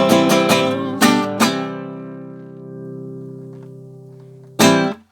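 Acoustic guitar playing the ending of a song. A run of quick, even strums gives way to two strong strums left to ring and slowly fade. Near the end comes one last loud strum, stopped short.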